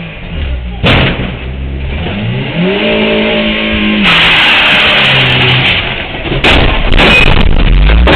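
A car engine revving up and back down, with a few sharp knocks.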